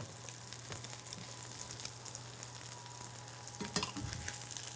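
Breaded chicken cutlets frying in hot oil in a pan: a steady sizzle with fine crackling. A brief clatter of knocks comes about three-quarters of the way through.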